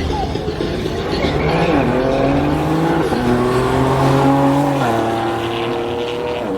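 Sports car engine at full throttle down a drag strip, rising in pitch and dropping back at each of several upshifts.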